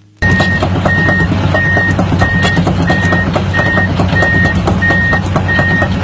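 Excavator engine running steadily while its travel alarm beeps at an even pace, about three beeps every two seconds.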